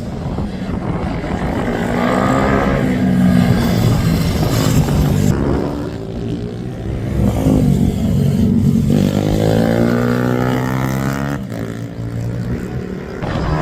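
Racing minibike engines revving hard as bikes pass on track, the engine note rising and falling several times, with a sudden drop about eleven and a half seconds in.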